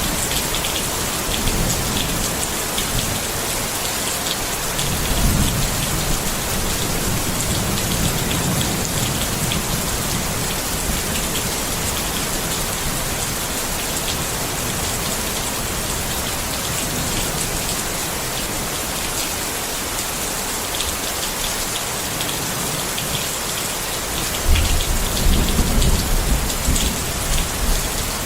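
Steady rain pattering on a tent's fabric, with low rumbles of thunder swelling now and then, the loudest starting near the end.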